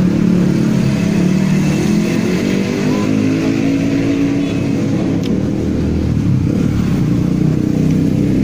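Motorcycle engine running steadily close by, with street traffic passing, and a single light click about five seconds in.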